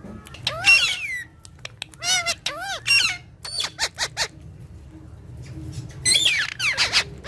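Green parrot calling in a series of short, high-pitched calls that rise and fall in pitch, with a quiet gap near the middle and a busier run of calls near the end.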